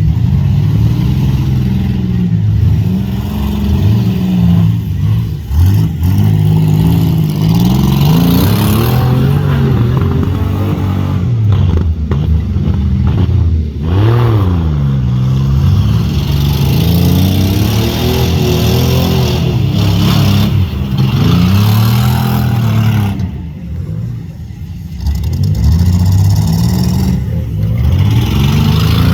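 Several demolition derby compact cars' engines revving hard, rising and falling in pitch over one another, with a few sharp knocks of cars hitting.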